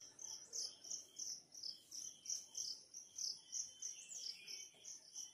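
Small birds chirping, high and rapid, about three chirps a second, with one falling call partway through.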